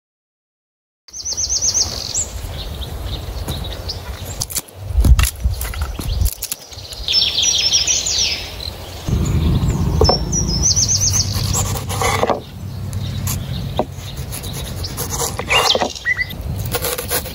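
Small birds chirping outdoors in short, rapid high trills, several times over, over a steady low rumble. A few loud thumps about five seconds in.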